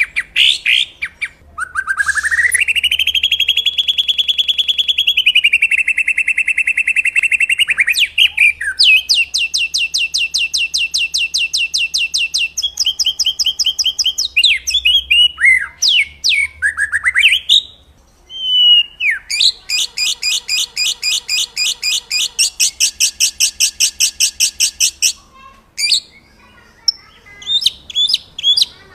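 Songbird song from a master training recording: long, very fast rattling trills of repeated notes. One sweeps up in pitch and holds, and others are high and buzzy. Short swooping whistles come between them, and choppy single notes come near the end.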